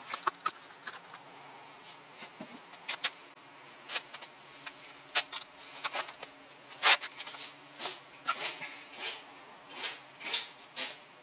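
Irregular clicking and knocking rattles from a Toyota Esquire minivan while driving, some sharp and loud, over a faint steady low hum; the uploader links the abnormal noise to the shock absorbers.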